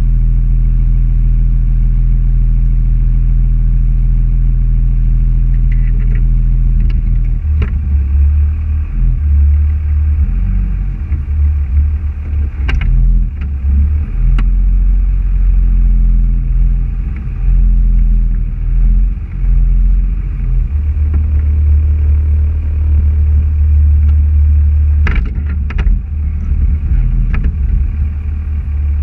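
Car engine running: a steady low hum whose pitch shifts a few times as speed changes, with a few sharp clicks.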